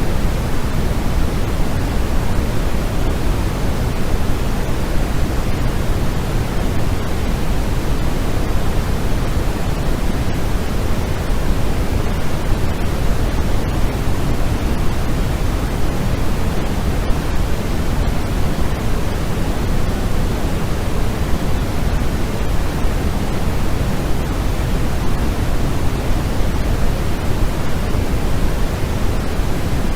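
Steady, unbroken white-noise sleep sound, weighted toward the low end so that it comes across as a deep, even hiss.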